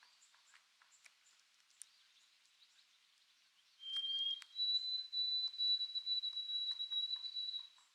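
White-throated sparrow singing its clear whistled song, starting about four seconds in: one lower note of about half a second, then a higher whistle held for about three seconds. Faint chirps and ticks come before it.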